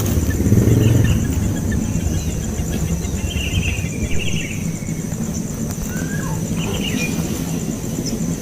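A few short bird chirps, a cluster about three to four seconds in and another near seven seconds, over a steady low rumble and a continuous thin high whine.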